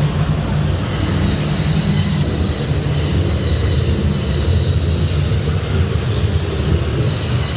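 Artificial indoor rainstorm: water falling from overhead in a steady, loud rush over a deep rumble.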